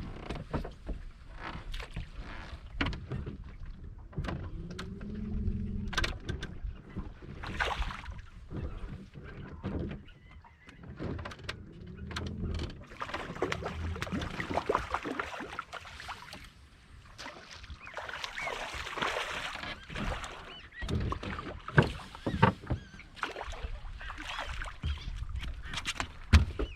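Sounds of people working on a fishing boat: scattered knocks and thumps on the hull, a short pitched call about five seconds in, and a stretch of rushing noise in the middle.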